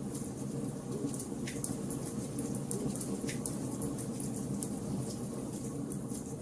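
Wood fire burning in a fireplace, crackling steadily: a dense patter of small crackles over a low steady rumble, with two louder pops about a second and a half and three seconds in.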